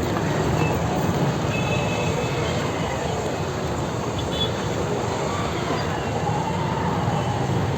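Steady rumble of busy street traffic, with a few faint high squeals about two seconds in.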